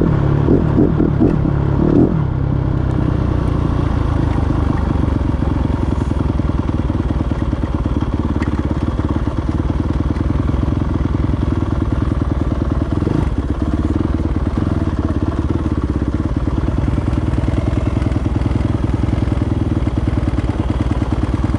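Yamaha YZ250F four-stroke single-cylinder dirt bike engine, blipped a few times in the first two seconds, then running steadily.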